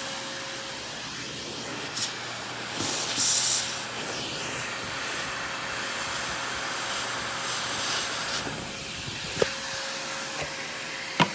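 Aerus Lux Guardian upright vacuum's suction motor running, with air rushing steadily through the hose and crevice tool. About three seconds in there is a louder, higher hiss of air, and a few sharp clicks come as the plastic tool is handled.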